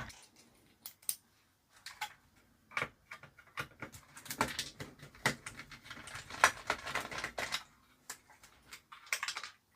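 Irregular light clicks and small metallic clatter from a screwdriver and its bits being handled: a long bit is picked out and fitted. The clicks come thicker in the middle.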